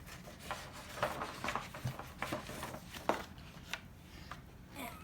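Paper rustling and being handled, with irregular light rubs and clicks as an activity booklet is flipped through.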